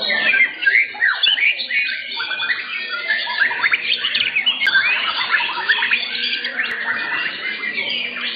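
Several white-rumped shamas (murai batu) singing at once in competition: a dense, unbroken tangle of fast whistled notes, trills and pitch glides.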